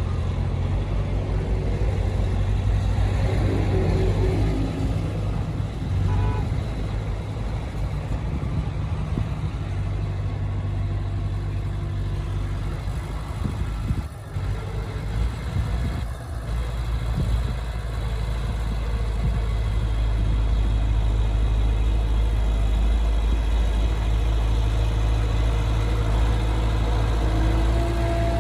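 Bulldozer's heavy diesel engine running steadily as a deep, low drone, with two brief dips in the middle; it grows louder and deeper in the second half.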